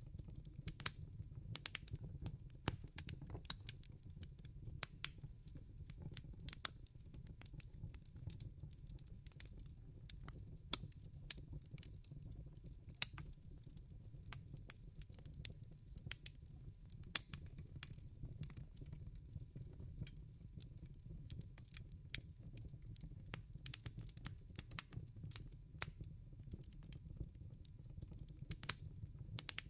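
Wood fire burning in a fireplace: a low steady rumble of flame with irregular sharp crackles and pops from the burning wood, several a second.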